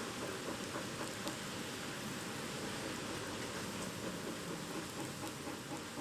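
Steady typhoon rain falling, with a few faint ticks of drops striking a surface.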